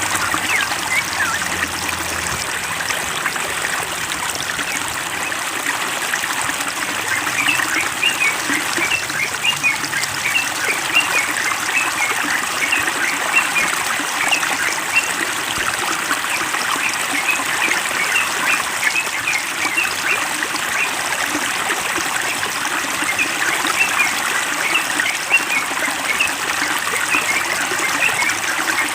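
Running water trickling and splashing steadily. From about a quarter of the way in, many short high chirps from small birds are heard over it.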